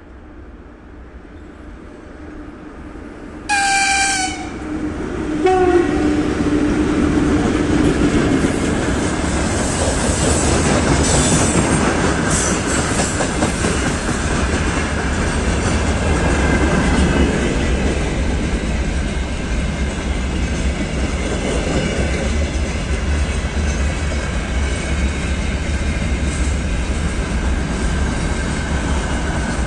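VL82M electric locomotive approaching with a freight train, sounding its horn: a short high blast about three seconds in, then a lower tone held for a few seconds. The locomotive and a long line of loaded freight wagons then roll past close by, rumbling steadily, with the wheels clattering over the rail joints.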